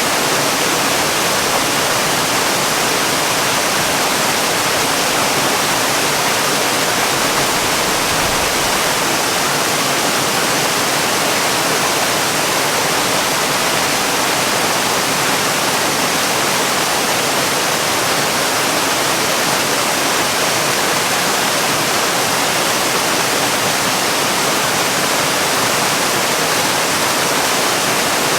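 Waterfall: a steady, even rush of falling water with a strong hiss and no change in level.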